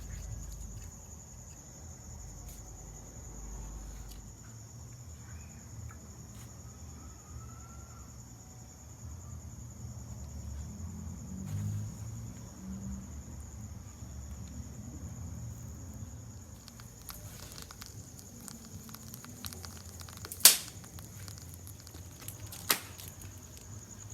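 Wood cooking fire crackling, with two sharp pops about two seconds apart near the end, over a steady high-pitched insect drone.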